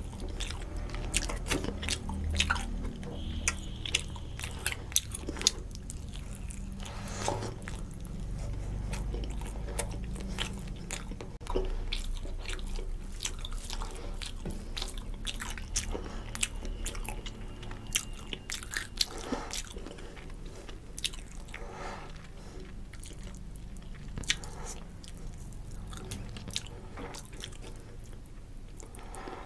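Close-miked chewing and mouth sounds of a man eating rice and rohu fish curry by hand, with many sharp wet clicks throughout.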